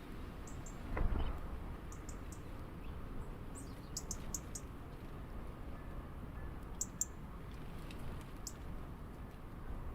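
Small birds at a backyard feeder giving short, high chirps, singly and in quick runs of two to four, over a steady low background rumble. A thump about a second in is the loudest sound.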